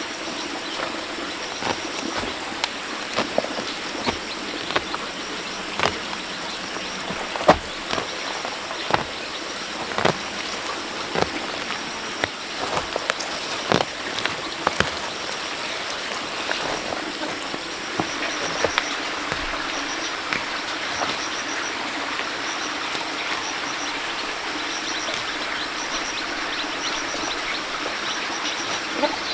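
Steady rushing of running water after heavy rain, with scattered sharp knocks and clicks throughout. A faint, rapid, high-pitched chirping repeats in the second half.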